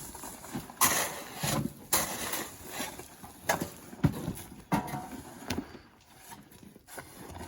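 Sand being shovelled: irregular scraping strokes and thuds, roughly one a second.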